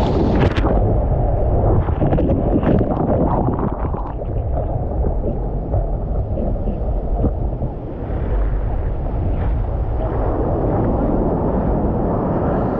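Wind buffeting the microphone: a loud, steady low rumble, with a few faint clicks in the first few seconds.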